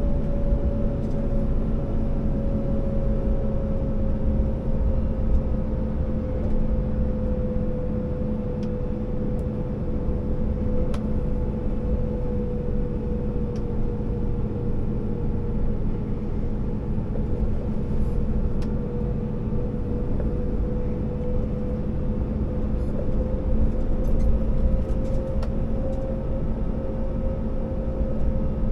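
Scania R650 timber truck's V8 diesel engine and drivetrain running steadily under load on the road, a deep rumble with a steady whine that sinks slightly and then rises again.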